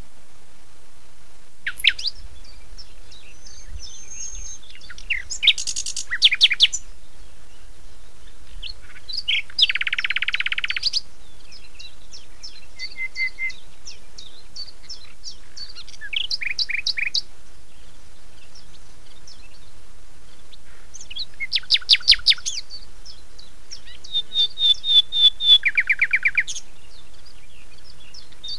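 Songbirds singing: scattered chirps, whistled notes and fast rattling trills every few seconds, over a faint low background rumble.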